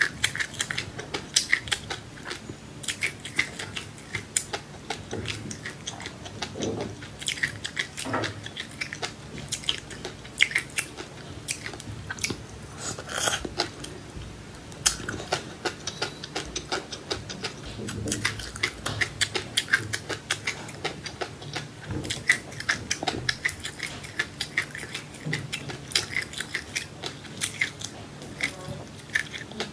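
Close-up chewing and crunching of food, with many quick, irregular crackles.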